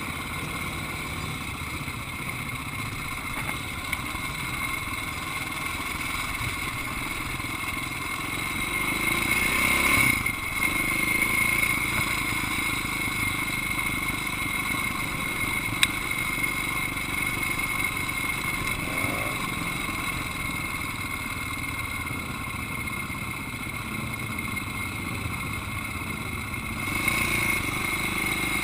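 Flat-track motorcycle engine heard close up from the handlebars, running at low revs as the bike rolls slowly. It picks up about eight seconds in, peaks near ten seconds and drops back abruptly. It then runs on evenly and rises again near the end.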